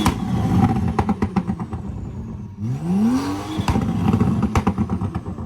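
A BMW's engine revved twice: a sudden hard blip at the start, then a second rev that climbs in pitch about three seconds in. Each rev is followed by rapid crackling pops from the exhaust.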